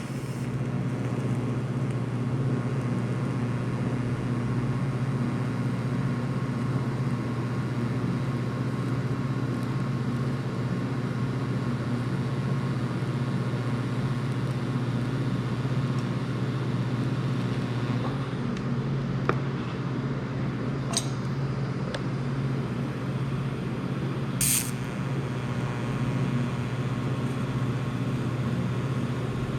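Miller Syncrowave 180 TIG welder welding steel at about 90 amps: a steady hum from the machine and a constant hiss from the arc, with a couple of short sharp crackles after about twenty seconds.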